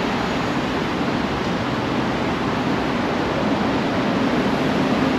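Steady, even rushing hiss with a faint low hum, the air-conditioning and fan noise of a shop showroom.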